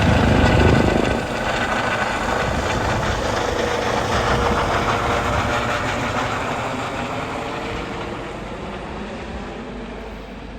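Airbus EC135 twin-turbine rescue helicopter flying away after take-off, its rotor and engine noise dropping about a second in and then fading steadily.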